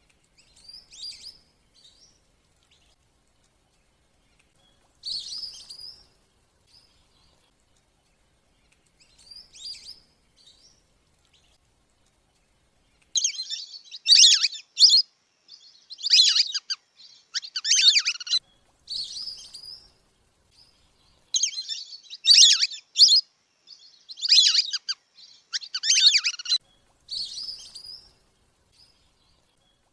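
Wandering whistling duck calls played as a lure: high, whistled call bursts, a few scattered and fainter groups at first, then from about halfway a dense run of loud, repeated bursts lasting some fifteen seconds.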